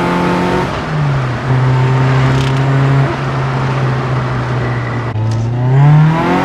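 Freshly rebuilt Toyota 4A-GE twin-cam four-cylinder being run in under load, heard from inside the car. The engine holds a steady note, drops in pitch about a second in, then near the end drops again and climbs steeply as it revs up.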